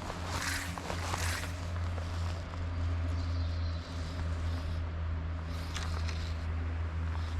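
An engine running steadily at a constant speed: an even low hum with a hiss over it.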